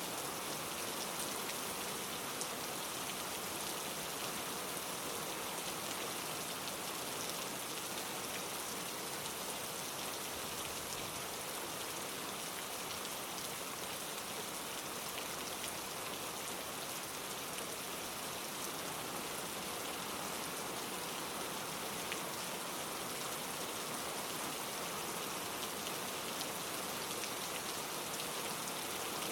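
Steady rain falling, an even hiss of countless drops that keeps on without a break or change.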